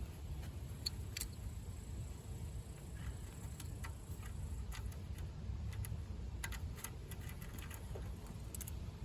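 Scattered light clicks and taps, irregular and a few seconds apart at most, over a low steady rumble.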